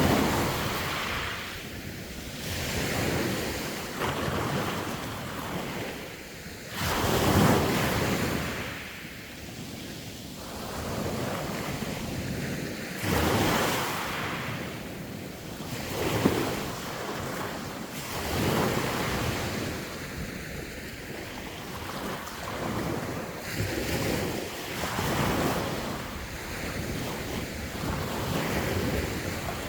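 Sea waves breaking and washing on the shore, a swell every few seconds, with wind on the microphone.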